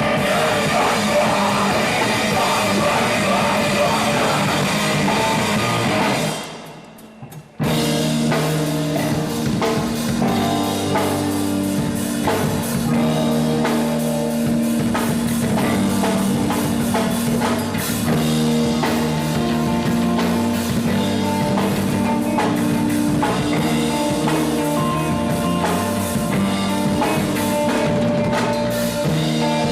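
A live rock band playing loud, with drums and distorted guitar. The music drops away about six seconds in and comes back abruptly about a second and a half later, then runs on with heavy held guitar chords.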